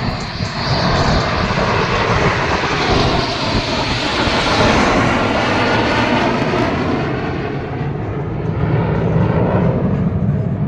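Fixed-wing aircraft flying past: a loud, steady engine rush whose tone sweeps as it passes, the hiss at the top fading away about two thirds of the way through as it moves off.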